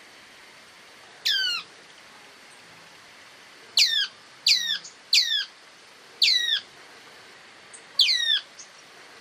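A bird of the kind called pedreiro in Brazil giving six sharp calls, each a quick whistle that sweeps steeply down in pitch. One call comes alone, then five follow in an irregular run.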